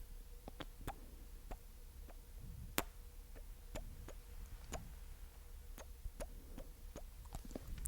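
Close-miked ASMR mouth sounds: a string of wet, sticky clicks and pops from tongue and lips, irregularly spaced at roughly two a second, the sharpest about three seconds in.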